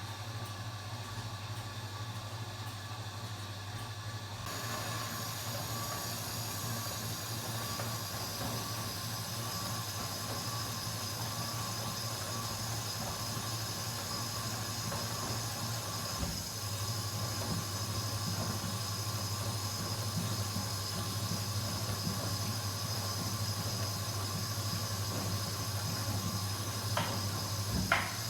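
Washing machine running with a steady low hum. About four seconds in, a steady hiss joins it, and a few sharp clicks sound near the end.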